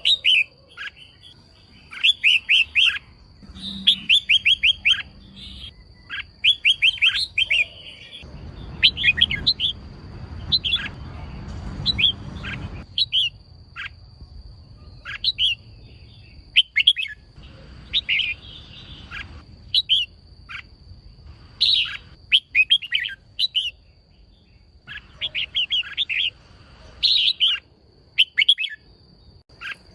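Female red-whiskered bulbul calling: short bursts of quick, chattering chirps that repeat every second or two. This is the female call used to excite male bulbuls into singing. A faint steady high whine lies underneath.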